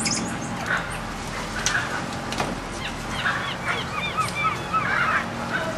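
A chorus of animal calls: a quick run of short, high, arching chirps from several animals at different pitches, starting about halfway through, with a few sharp clicks earlier on.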